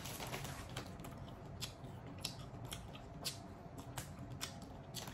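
Faint, close chewing of a chewy sugared licorice candy: a string of irregular soft mouth clicks.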